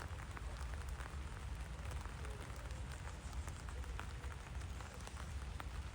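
Steady rain falling, with many small drop ticks scattered through it and a low rumble underneath.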